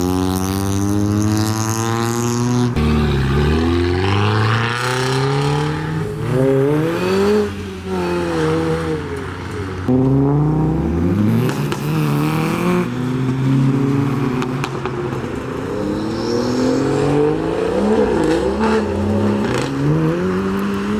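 Modified cars' engines revving and accelerating away one after another, their pitch climbing and dropping over and over as they rev and change gear.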